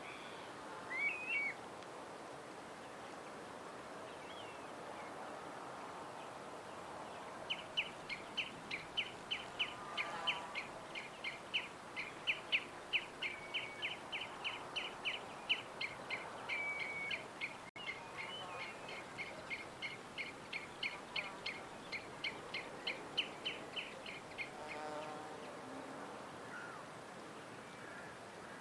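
Birds chirping outdoors: a few scattered calls, then one bird repeating a short, sharp chirp about four times a second for some seventeen seconds, over a steady background hiss.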